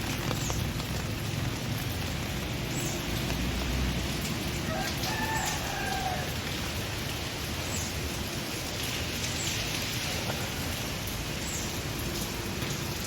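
Steady rain falling, with short high chirps repeating every second or two and a brief tonal call about five seconds in.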